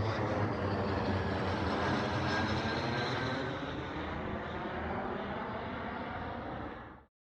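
Airliner on landing approach passing low overhead, its engines making a loud, steady noise that slowly fades as it moves away, then cuts off abruptly near the end.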